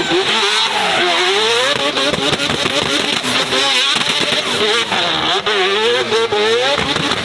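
A loud performance car engine revved hard, its pitch swinging up and down about once a second as the throttle is worked on and off.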